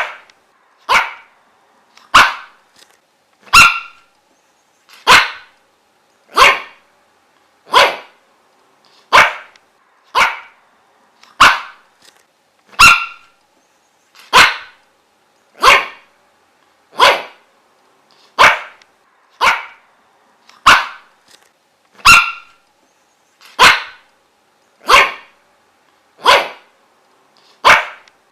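A dog barking single, sharp barks at a steady, even pace of about one every second and a quarter, with a pause between each bark.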